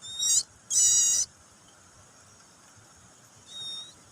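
Baby bird calling with high, shrill cheeps: two loud calls in the first second, then a fainter one near the end.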